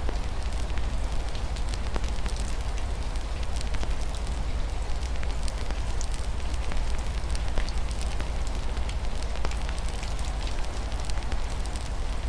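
Wood fire in a fireplace crackling, with many small sharp pops scattered throughout, over a steady hiss of rain falling on a window and a constant low rumble underneath.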